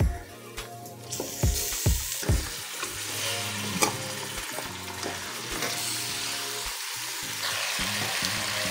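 Raw chicken pieces sizzling in hot oil with fried onions. The sizzle starts about a second in and grows louder near the end. A few knocks in the first couple of seconds come from pieces landing and the metal slotted spoon hitting the pot.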